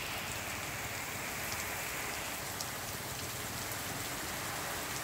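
Heavy rain falling steadily onto flooded ground and standing water: an even hiss with a few faint, sharp drip ticks.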